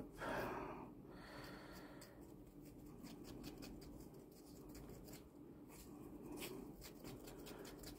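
Faint, irregular scraping and light tapping of resin being stirred to mix in pigment powder.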